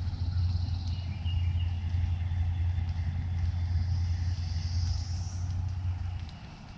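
Steady low engine drone from a passing motor vehicle, dropping away about six seconds in.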